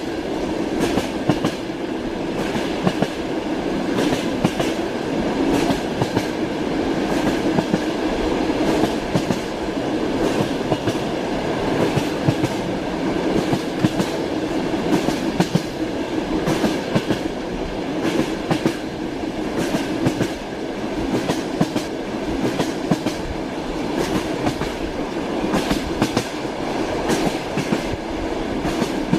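Train wheels clattering over the rail joints as the train runs along: a steady rolling noise with frequent sharp clicks.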